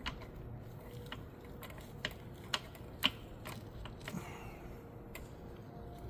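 Metal transmission parts clicking and clinking a few times as the reverse gear and its keyed shaft are fitted into the gearbox case, the sharpest clicks about two and a half and three seconds in.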